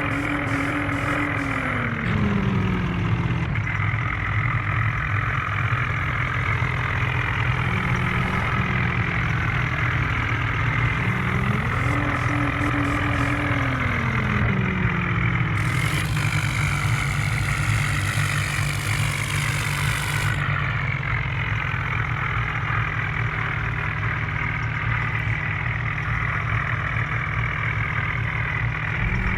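Vehicle engine running steadily. Its pitch drops about two seconds in, climbs back around eleven seconds and falls again near fourteen. A hiss rises over it for several seconds past the middle.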